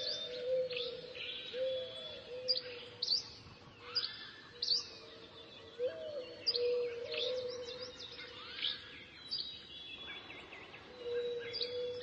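Birds chirping and tweeting: short, quick calls repeating every second or so, over a lower steady, wavering tone.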